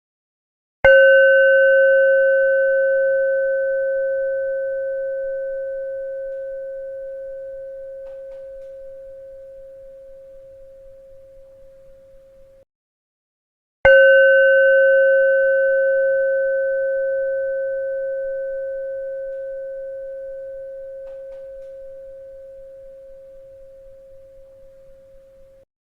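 A bell struck twice, about thirteen seconds apart. Each strike rings with one steady mid-pitched tone and fainter higher overtones, fades slowly over about twelve seconds, then cuts off suddenly just before the next strike.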